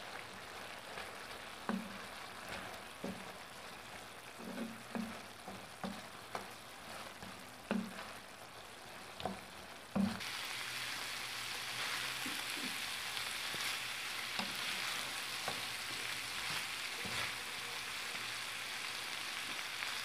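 Chicken pieces frying in a thick red sauce in a pan, stirred with a wooden spatula: a sizzle with irregular knocks of the spatula against the pan in the first half, then from about halfway a louder, steady sizzle as the sauce has cooked down to a coating on the meat.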